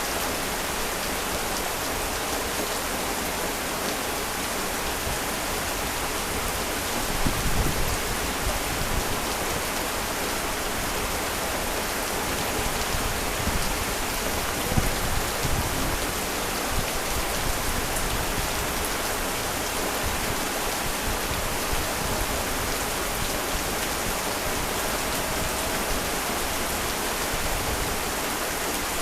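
Heavy rain falling steadily, a continuous even hiss. Brief low rumbles come in about a quarter of the way through and again around the middle.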